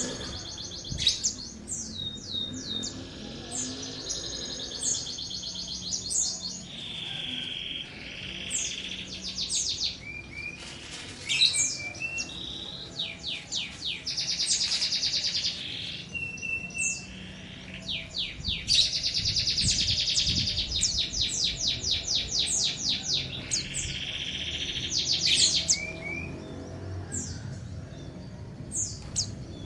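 A songbird singing loudly in phrases of rapid high trills and downward-sweeping whistles, repeated again and again.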